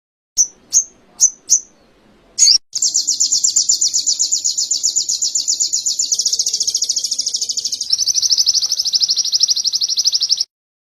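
A songbird singing canary-style song: four short, sharp chirps, then a long, fast, rolling trill that drops slightly in pitch about eight seconds in and cuts off suddenly near the end.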